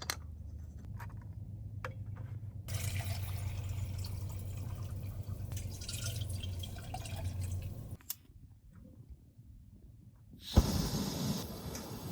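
Liquid pouring and dripping, heard across several short edited shots that change abruptly. A louder stretch of steady noise starts suddenly near the end.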